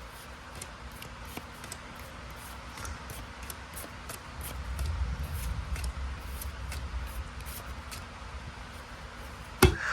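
Faint rustling and light clicking of Pokémon trading cards and booster-pack wrappers being handled. A low rumble swells through the middle, and a sharp knock comes near the end.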